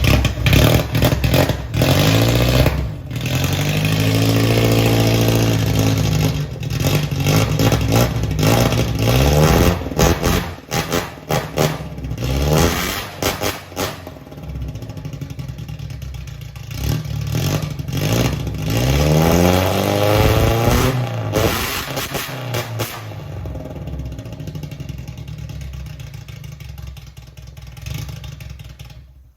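Old car's engine running loud through a freshly made one-off muffler. It is blipped so the revs climb and drop back twice, a few seconds in and again about twenty seconds in. The sound cuts off suddenly at the end.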